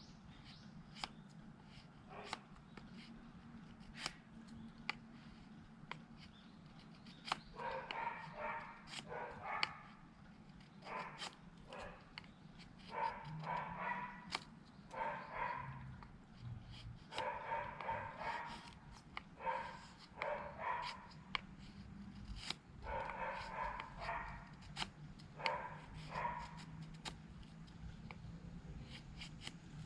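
Repeated bouts of short pitched animal calls, several in quick succession in each bout, starting about a quarter of the way in. Scattered sharp clicks and a low steady hum run underneath.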